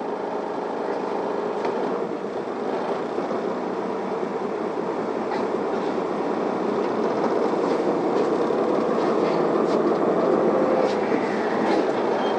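Cabin of an Isuzu Erga diesel city bus pulling away from a stop: engine and road noise grow steadily louder as the bus accelerates, with a few light rattles.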